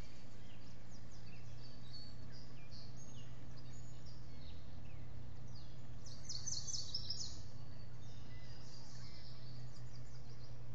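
Birds chirping: scattered high chirps, with a quick run of repeated high notes about six seconds in, over a steady low hum and hiss.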